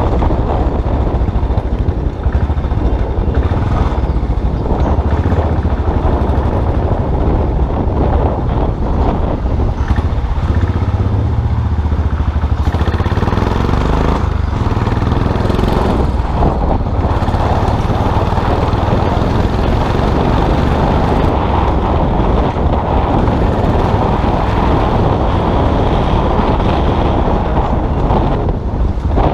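Custom motorcycle engine running steadily while riding, with wind rushing past.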